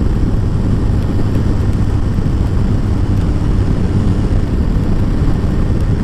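Kawasaki ZZR1400 motorcycle's inline-four cruising at a steady speed: an even engine hum under loud, constant wind and road noise.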